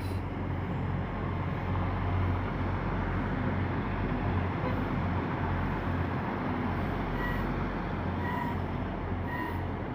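Diesel engines of Arriva Trains Wales Class 175 multiple units running at a station platform: a steady low rumbling hum. Near the end come three short faint beeps, about a second apart.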